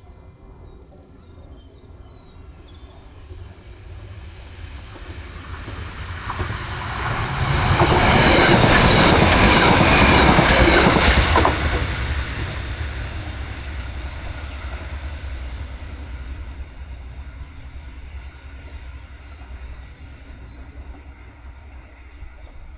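A train passing at speed on the railway line: its rumble grows over several seconds, is loudest for about four seconds with a quick run of wheel clacks, then dies away as it recedes.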